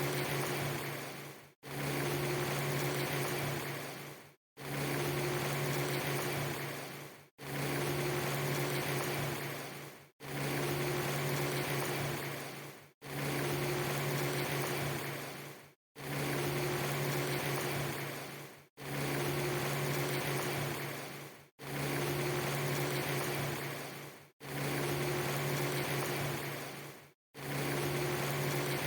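A short recording of steady rain noise over a low hum, looped: it repeats about every three seconds, with a brief drop to silence between repeats.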